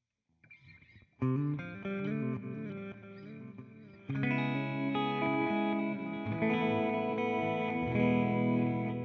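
Electric guitar, a Fender Jazzmaster played through a TC Electronic Flashback delay pedal and a simulated Fender '65 Twin Reverb amp, playing notes and chords. It starts faintly, comes in loudly a little over a second in, and grows fuller again about four seconds in.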